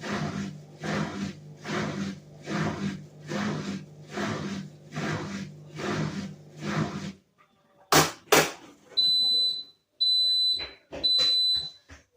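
Whirlpool washing machine running: the drum turns with a rhythmic swish about twice a second over a steady motor hum, stopping about seven seconds in. Then come two loud clicks and three long, high beeps, the machine signalling the end of its cycle.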